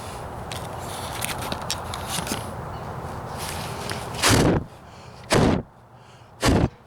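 Sandpaper scratching over body filler for about four seconds, then three short, loud puffs of breath blown at the camera to clear sanding dust off it, about a second apart.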